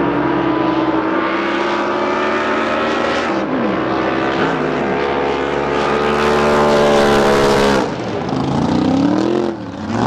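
Drag boat engine running hard, its pitch climbing as it goes flat out. It cuts off abruptly just before eight seconds in, then gives one short rising rev.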